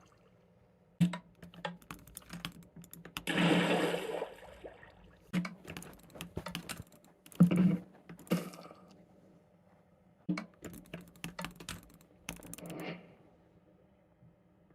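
Irregular clusters of sharp clicks, like keys being typed, broken by a few short bursts of hiss, over a faint steady hum.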